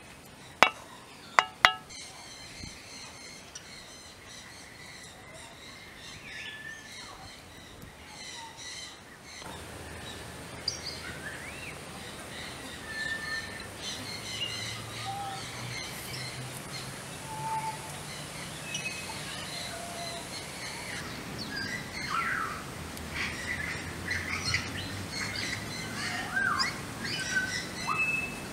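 Wild birds chirping and calling, in many short scattered notes and quick whistled glides. Three sharp knocks in the first two seconds are the loudest sounds.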